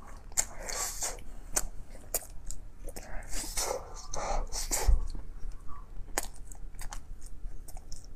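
Close-miked chewing of soft chocolate bread with a molten chocolate filling: wet, sticky mouth clicks and lip smacks, coming in short irregular bursts.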